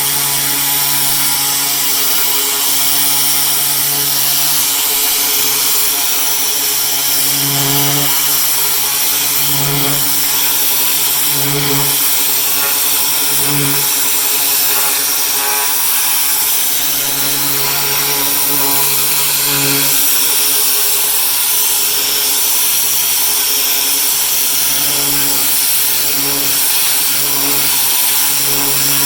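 Pressure washer running: a steady hum from its motor and pump under a loud, even hiss of the water spray, the hum swelling and fading several times.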